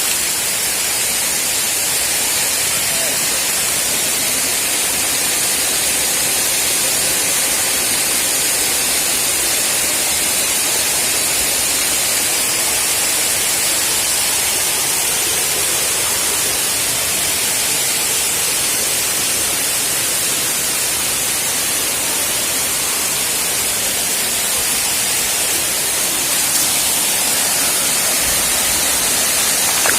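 Waterfall water pouring and splashing: a loud, steady rushing hiss that never lets up.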